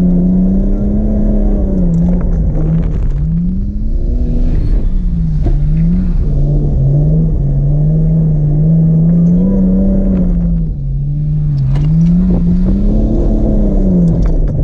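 Drift car's engine held high in the revs, the note repeatedly rising and falling every second or two as the throttle is worked through a slide.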